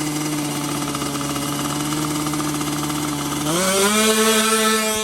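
Two-stroke underbone racing motorcycle engine held at steady high revs, then revved higher and louder about three and a half seconds in.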